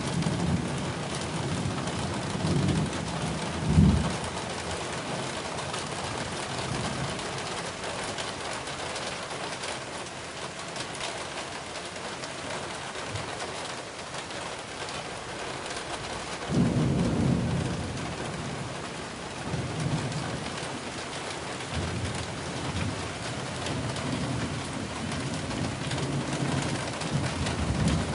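Heavy rain falling steadily, a constant hiss. Low rumbling swells come and go, with one short low thump about four seconds in.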